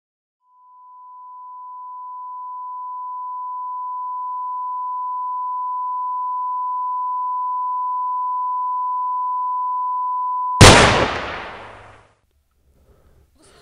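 A steady, high, pure electronic tone swells in over the first few seconds and holds for about ten seconds, then a single sudden loud bang cuts it off and dies away over about a second and a half.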